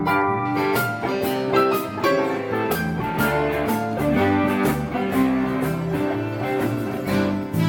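Music: guitars playing a strummed accompaniment with a steady beat.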